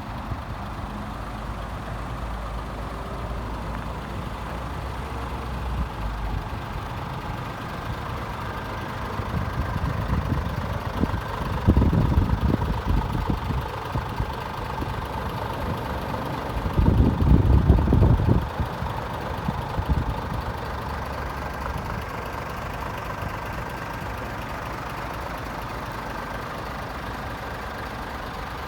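Scania S500 tractor unit's 500 hp Euro 6 diesel engine idling steadily. A louder low rumble swells in twice, around twelve and seventeen seconds in.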